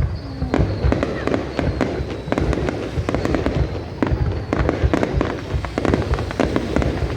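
Fireworks display: a dense, irregular run of bangs and low booms from bursting shells, with a faint high whistling tone through the first few seconds.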